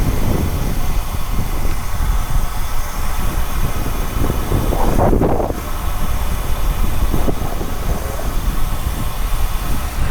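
Wind rushing over the camera microphone of a riding cyclist, a steady low rumble with a brief louder swell about five seconds in.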